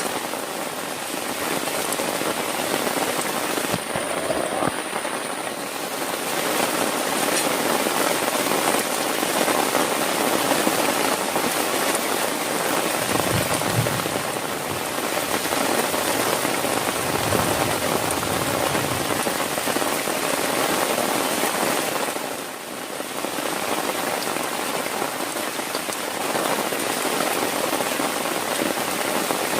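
Heavy rain falling steadily, a dense, even wash of drops that eases briefly about three quarters of the way through.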